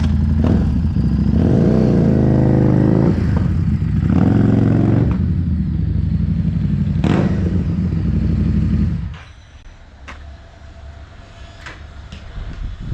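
Harley-Davidson Street Rod 750's V-twin running through a Vance and Hines high-output slip-on muffler, revved up and back twice, then falling away sharply about nine seconds in.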